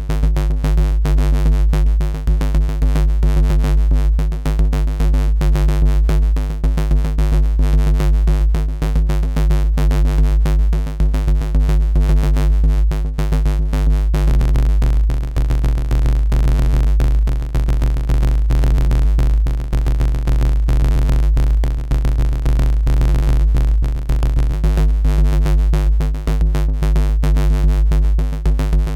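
Looping electronic music at about 140 BPM: a dirty FM synth bass riff patched in Bitwig's Polygrid, with a very deep sub bass and a drum-machine beat. From about halfway to near the end the bass tone changes, its bright upper overtones thinning, before the original tone returns.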